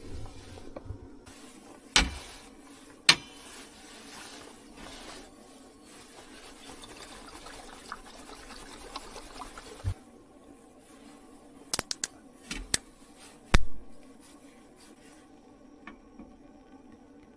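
Sharp clicks and knocks of small objects being handled, two early on and a cluster about twelve to fourteen seconds in, with a steady hiss between about one and ten seconds in.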